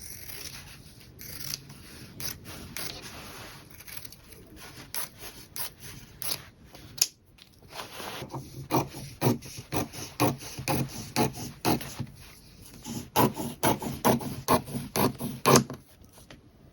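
Fabric and sewing tools being handled on a work surface: rubbing and scraping at first, then from about halfway a run of irregular sharp clicks and snips.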